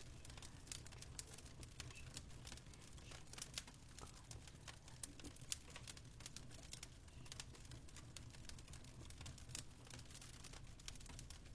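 Faint fireplace crackle: many small irregular pops and snaps over a low steady hum.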